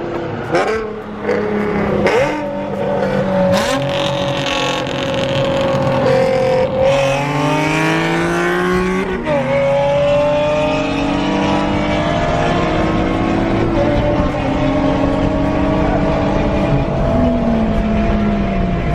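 Nissan Z-car VQ V6 engine at hard acceleration, its note climbing steadily and dropping sharply with gear changes about 3.5, 7 and 9 seconds in, then a long slow climb in pitch through the top gear.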